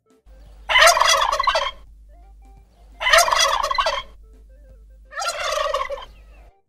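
Male turkey gobbling three times, each rattling gobble lasting about a second, with a pause of about a second between them.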